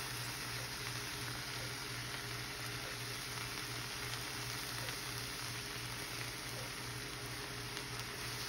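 Cubed chicken breast sizzling steadily in an oiled skillet, with a low pulsing hum underneath.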